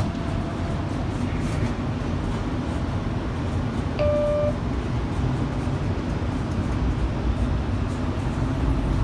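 Steady low rumble of a streetcar in motion, heard from inside the car, with a single short electronic beep about four seconds in.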